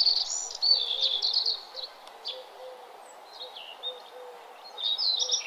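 Small birds singing in quick, high chirping phrases. The phrases are loudest at the start and again near the end, with a faint steady hiss underneath.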